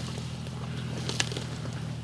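A Jeep's engine running steadily as it mows on a hillside, with a brief click a little over a second in.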